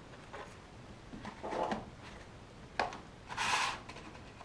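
Handling noises from small boxed model wagon kits being moved about: a soft rub, then a sharp click, then a brief rustling scrape.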